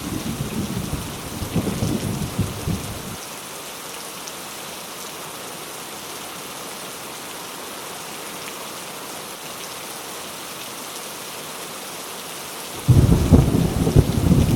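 Heavy rain falling steadily, with rolling thunder rumbling for the first three seconds, then stopping abruptly. A new loud thunder rumble breaks in suddenly about two seconds before the end.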